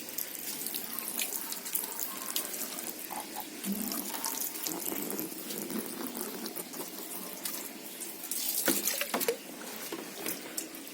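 Water from a hose pipe running and splashing over a motorcycle, a steady hiss with irregular splatters that get louder about eight seconds in.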